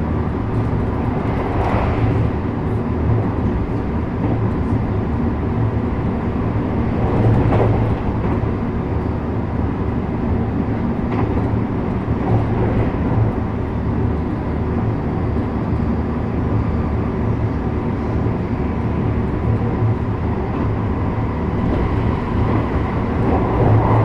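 JR West 321 series electric train running along the line: a steady rumble of wheels on rail under a low motor hum, with a few brief louder clatters about two and seven seconds in.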